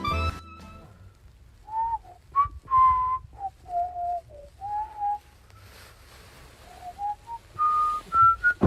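A person whistling a short tune: a string of single clear notes that step and bend up and down in pitch, climbing higher near the end. A sharp knock comes right at the end.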